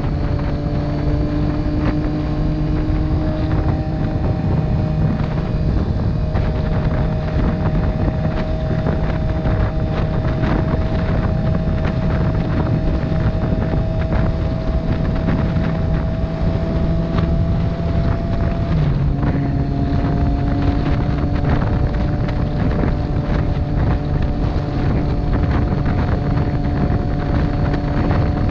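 Motorcycle engine running at a steady cruise under heavy wind rush on the microphone, its note rising slightly before a gear change about two-thirds of the way through drops the engine note.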